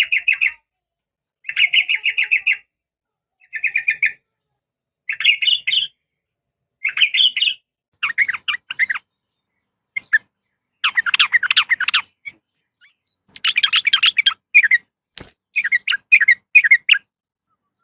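Yellow-vented bulbul (trucukan) calling: short bursts of rapid, chattering notes repeated about every second and a half, which become longer and more varied after about eight seconds. The recording is presented as a female calling to a male. A single sharp click comes near the end.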